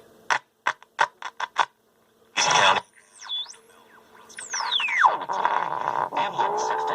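Loudspeaker of a vintage Heathkit GR-151B transistor radio crackling in about six short bursts, then a burst of static, a whistle that dips and comes back up, and a whistle falling steeply from very high to low before settling into steady static. The squeals are the sign of the radio's IF stage breaking into oscillation, which comes on when it hits a strong station.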